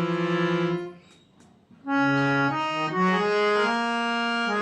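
Amrit 7-stopper harmonium with bass and male reeds, played by hand-pumped bellows. A held note stops just under a second in, and after a short pause with a couple of faint clicks a slow line of held notes begins over a sustained bass.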